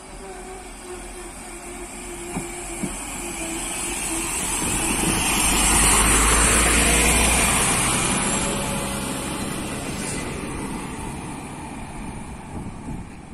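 A train passing by, its noise swelling to a peak about six seconds in and then fading away, with a strong hiss over the rumble.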